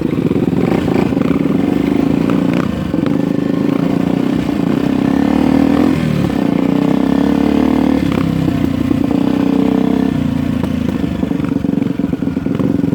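Dirt bike engine running steadily under way on a trail ride.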